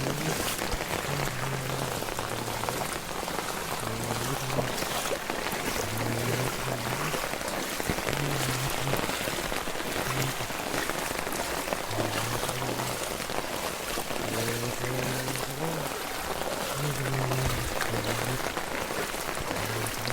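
Heavy rain pouring steadily onto the ground, with a music track's low bass notes running underneath.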